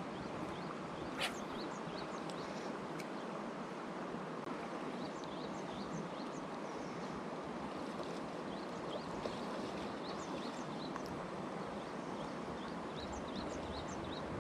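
Mountain stream water rushing steadily, with many short high chirps over it and one sharp click about a second in.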